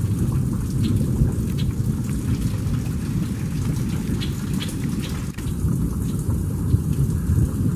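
Steady heavy rain over a constant low rumble, which the owner takes for a tornado passing close by. Scattered drops tap close to the microphone, and there is one sharp click about five seconds in.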